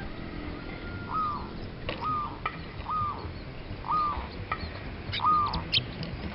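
A wild bird calling: a short down-slurred note repeated five times, about once a second, with sharp high chips in between.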